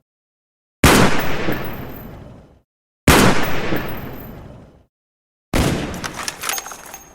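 Gunshot sound effects: two separate shots, each sudden and dying away over nearly two seconds with silence between. About five and a half seconds in, a different effect begins: a clattering run of sharp clicks with ringing metallic or glassy tones, fading out.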